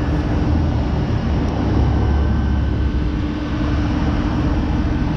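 A vehicle engine running steadily under load, its low rumble swelling for a second or so near the middle.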